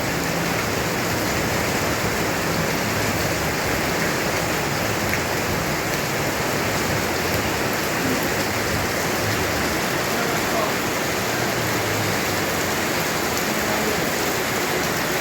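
Heavy rain pouring down: a dense, steady hiss that holds at one level throughout.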